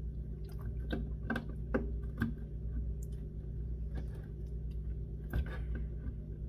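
Skateboard griptape being picked at and peeled off the deck by finger, giving irregular light clicks and crackles about one or two a second over a steady low hum.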